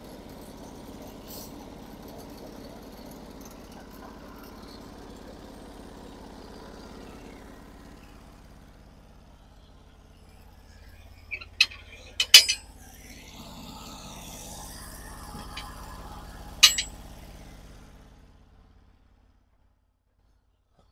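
Sawmill engine idling steadily, with a few sharp clanks and knocks of wood and metal being handled about halfway through and one more a little later; the engine sound drops away near the end.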